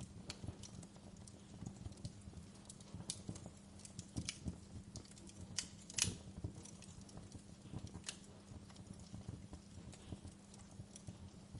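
Campfire crackling, with irregular sharp pops over a low rumble and a faint steady hum; the loudest pop comes about halfway through.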